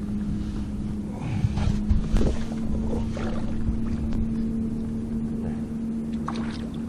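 Steady low drone of a boat motor, with a few louder scuffing or splashing bursts about one to two and a half seconds in.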